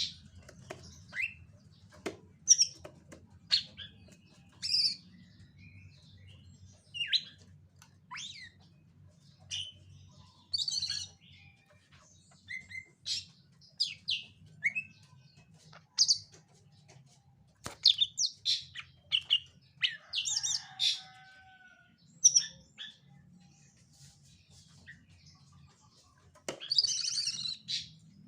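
Caged greater green leafbird (cucak ijo) calling: scattered short, sharp chirps and whistled notes, some sliding in pitch, coming in irregular bursts, with a denser run of chatter near the end. A faint steady low hum runs underneath.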